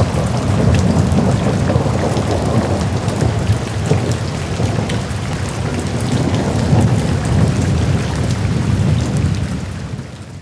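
Steady heavy rain with fine pattering drops over a low rolling rumble of thunder, fading out near the end.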